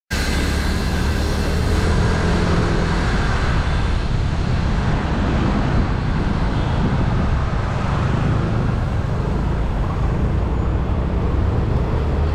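Steady road noise recorded from a moving motorbike: engine running and air rushing past.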